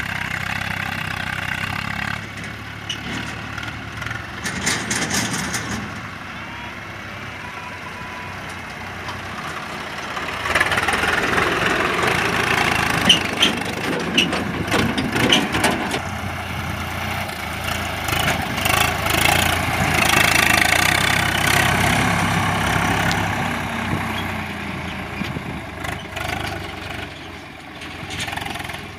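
Diesel tractor engine running, growing louder from about ten seconds in, with a few sharp knocks in the middle.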